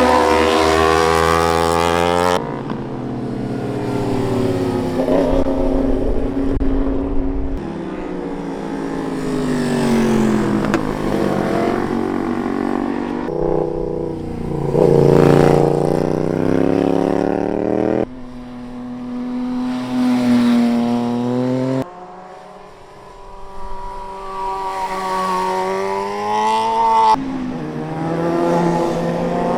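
Superbike engine heard from on board, revving up and dropping back again and again as the rider accelerates out of and brakes into corners, with sudden jumps in pitch at the gear changes.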